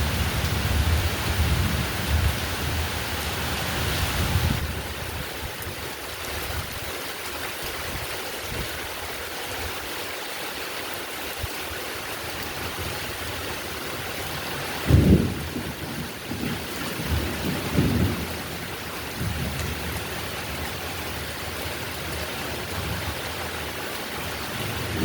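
Steady heavy rain with thunder: low rumbling for the first few seconds, a sudden loud clap about fifteen seconds in followed by a few smaller rolls, and more rumbling starting near the end.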